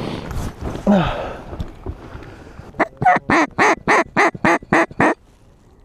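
A mallard duck call blown in a hen's greeting cadence: a run of about nine loud, evenly spaced quacks, three or four a second, that stops abruptly.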